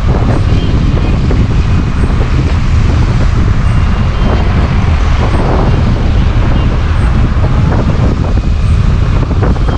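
Heavy wind buffeting on the microphone over a steady vehicle rumble, as when moving along a road.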